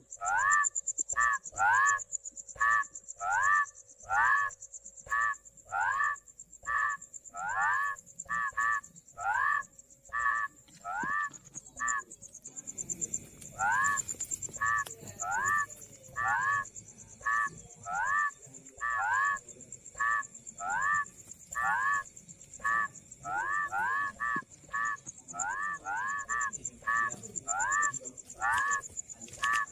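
Rice-field frogs calling: short croaks that each rise in pitch, repeated about twice a second, with a brief pause about twelve seconds in. A steady high-pitched buzz runs behind them.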